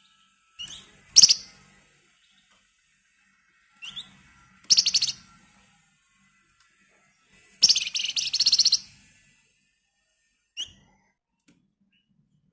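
Flamboyan (wergan Jawa, the Javan fulvetta) calling in separate bouts of fast, rattling trills, the 'ngebren' call, each led by a short rising note. There are three trills, the last the longest at about a second, then one short chirp near the end.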